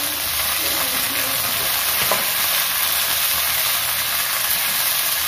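Shallots, chillies and tomato halves sizzling steadily in hot oil in a nonstick wok, stirred with a spatula, frying for sambal.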